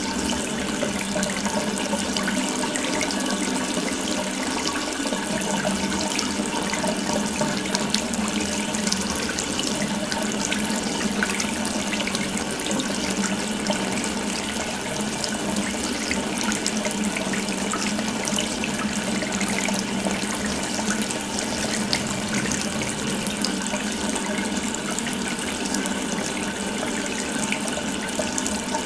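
Water running steadily from an open tap, a continuous even splashing stream.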